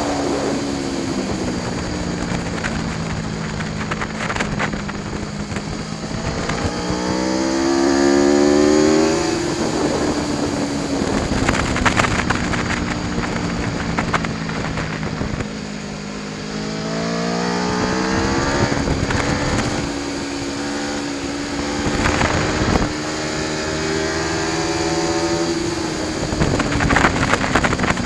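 Aprilia Tuono V4 1100 Factory's V4 engine on track, its pitch climbing steadily twice as it accelerates and dropping back after each climb, over steady wind rush.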